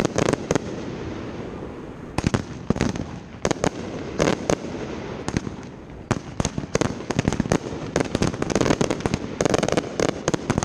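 Consumer 1.4G fireworks going off in rapid volleys: many sharp bangs with crackling in between, coming thickest in the last few seconds.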